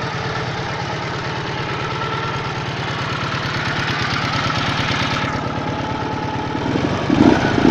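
Restored Dnepr motorcycle's opposed-twin engine idling steadily, getting briefly louder near the end.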